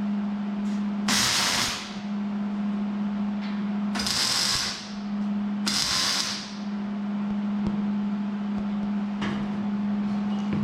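Electric welder striking short tack welds on steel angle iron: three brief bursts of arc crackle under a second each, and a fainter one near the end, over the welder's steady hum.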